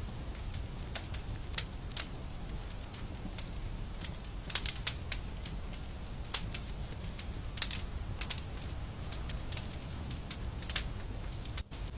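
Wood fire crackling in a fireplace: irregular sharp pops and snaps over a low steady rumble, with a momentary dropout near the end.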